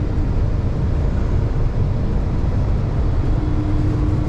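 Inside the cab of a Kenworth T680 semi truck with a Paccar MX13 diesel, cruising at highway speed: a steady, loud mix of engine and road noise, and a steady hum joins about three seconds in.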